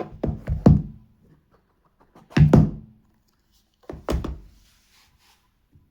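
Dull knocks and thumps of a cardboard phone box being handled and opened on a table. They come in three clusters about two seconds apart, and the middle one is the loudest.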